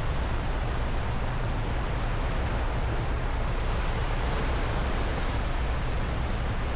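Steady rushing noise of wind on the microphone, with a low rumble underneath.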